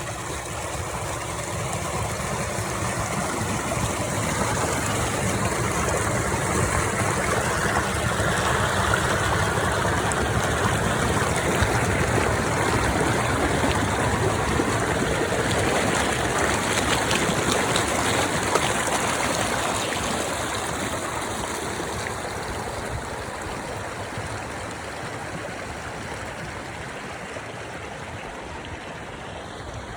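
Running water with a steady, even rush, like a stream. It grows louder towards the middle and fades gradually near the end.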